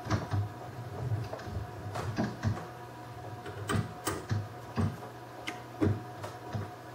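Irregular light clicks and knocks of lathe fittings and hardware being handled and fitted, over a steady low hum.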